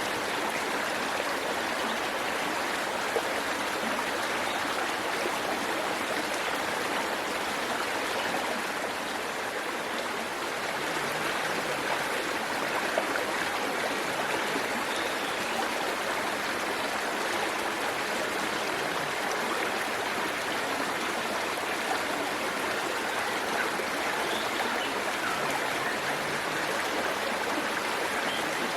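Waterfall and the stream below it, water rushing and splashing steadily over rocks.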